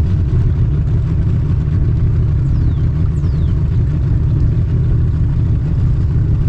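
Steady low rumble of a vehicle engine running under way, even in level throughout.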